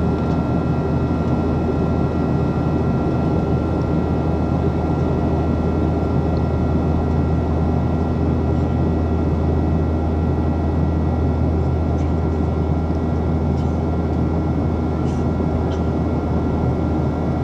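Steady cabin noise inside a Boeing 737 in its climb after take-off: a low jet-engine drone under rushing air, with a few faint steady high tones and no change in level.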